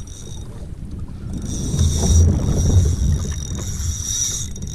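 Wind buffeting the microphone on a fishing kayak at sea, with water moving around the hull. A steady high-pitched whine runs over it and grows louder about a second and a half in.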